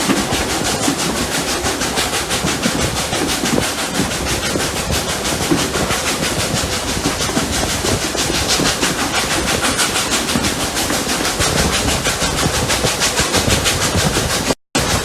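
Double-headed steam locomotives Rx207 and 621 working uphill: a fast, even rhythm of exhaust beats over a steady hiss, heard from on board the train. The sound cuts out for a moment near the end.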